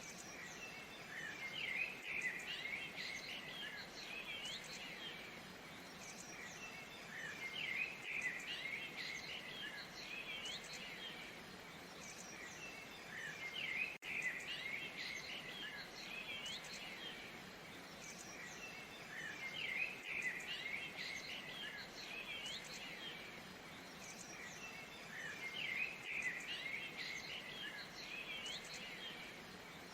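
Waterfall rushing steadily under a dense chorus of birds chirping and whistling. The bird calls swell and fade in a pattern that repeats about every six seconds.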